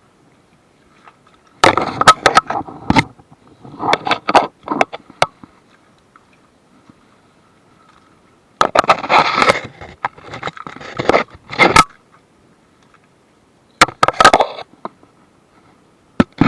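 Hand-tool work on a car during engine removal: irregular spells of scraping and sharp clicking, four bursts with pauses between them and a single sharp click near the end.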